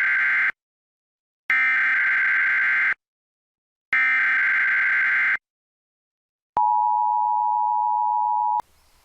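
Emergency Alert System broadcast tones: three harsh, buzzing bursts of digital header data, each about a second and a half, then a steady two-note attention tone held for about two seconds and cut off sharply.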